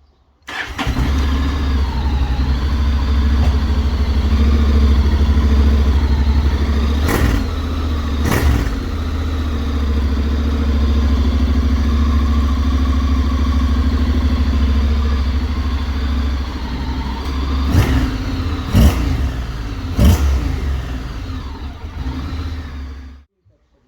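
Honda Forza 750's parallel-twin engine running through a Mivv Delta Race slip-on exhaust, deep and steady with the revs wavering. It gives sharp cracks twice about a third of the way in and three times near the end. The sound starts abruptly just after the start and cuts off suddenly shortly before the end.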